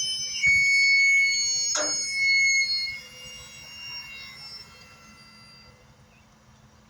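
Steel struck twice, a dull knock and then a sharper hit, ringing on with several high clear tones that die away over a few seconds.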